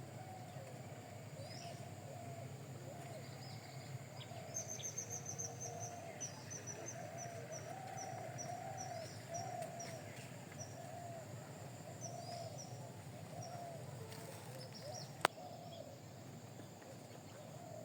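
Small birds chirping, with a quick run of short high chirps in the middle that slows as it goes, and scattered chirps later. A lower wavering call runs underneath throughout, and there is a single sharp click about two seconds before the end.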